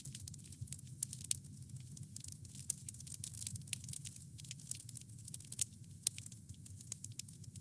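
Wood fire crackling, with many small irregular pops and snaps over a low steady rumble of the flames.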